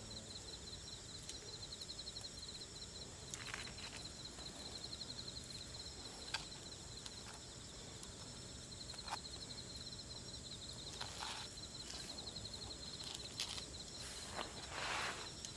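Insects chirring: a rapid pulsing trill with a steadier, higher hiss behind it. A few short crunches or clicks break in now and then.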